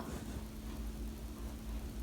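Steady low hum with a faint constant tone and light background noise.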